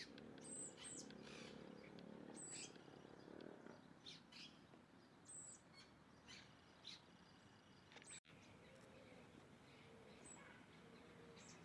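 Faint, short, high-pitched bird chirps, repeated every second or two.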